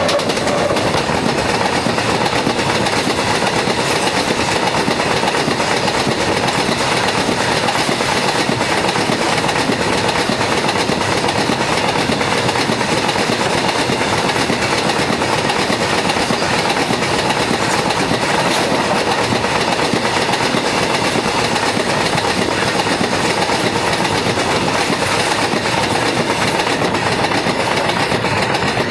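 A train passing at close range: a loud, steady noise of wheels running on the rails that comes on abruptly right at the start.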